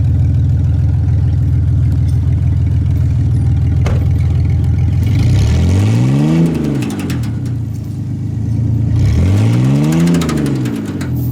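Pickup truck engine held at high revs under load, then revved up and let back down twice, about three and a half seconds apart.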